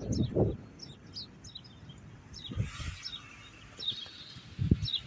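Small birds chirping repeatedly, short quick downward-sweeping notes several times a second. A few brief low thumps come near the start, in the middle and near the end, and a hiss rises and fades in the middle.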